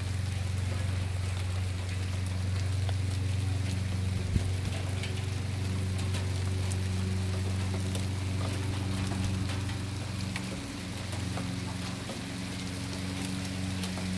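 Summer rain shower pattering down, a steady haze of small drop ticks, over a steady low mechanical hum. One sharper tap about four seconds in.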